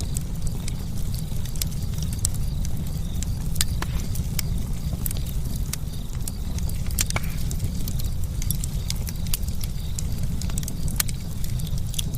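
Campfire crackling: irregular sharp pops and snaps over a steady low rumble of the flames.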